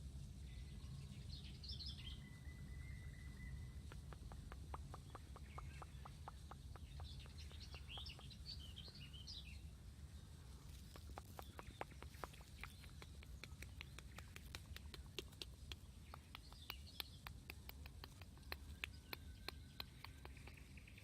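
Songbirds singing faint, high, warbling phrases three times, with one held note early on. From about four seconds in comes a long run of quick, sharp clicks, over a steady low rumble.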